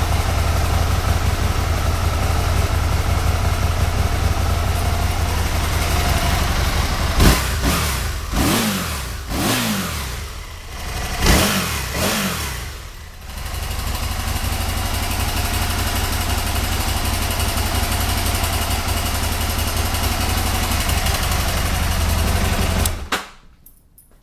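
Aprilia SL1000 Falco's 1000 cc V-twin engine idling steadily. A little over a third of the way in it is blipped about four times, each rev falling back to idle, then it settles to a steady idle again and cuts off suddenly near the end.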